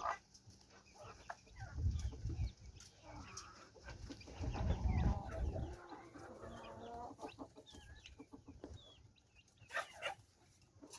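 Roosters clucking and calling faintly, with a longer call about four seconds in and low rumbling underneath in places.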